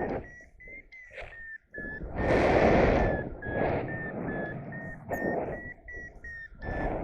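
Paragliding variometer beeping in a quick chain of short tones, about two or three a second, its pitch wavering slightly; beeping like this signals the glider is climbing. Gusts of wind rush over the microphone, loudest about two seconds in.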